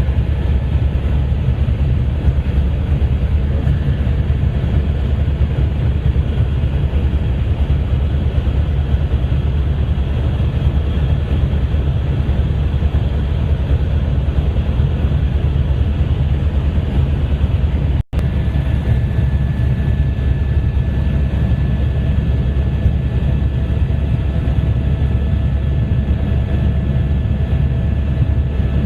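Helicopter in flight: a loud, steady low drone of rotor and engine with a fine regular pulse, breaking off for an instant about 18 seconds in.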